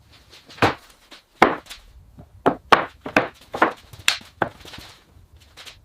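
A series of about ten sharp knocks or blows at an irregular pace, each dying away quickly, typical of striking or chopping work in a woodworking shop.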